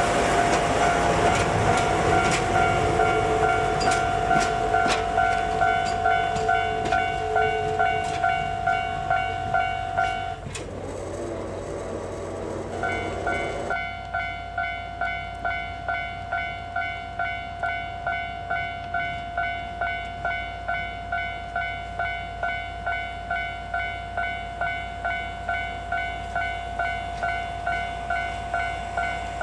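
Level-crossing warning bell ringing in a steady, even clang about one and a half times a second. A train runs past with wheel clicks for the first ten seconds or so. The bell briefly drops out and then rings on alone.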